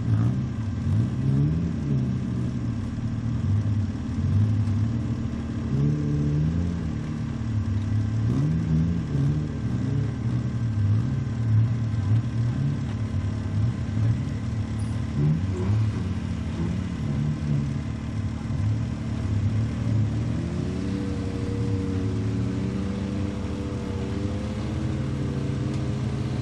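Suzuki Jimny trial truck's engine revving up and falling back again and again as it crawls over steep dirt mounds. Near the end it holds a steadier, higher rev.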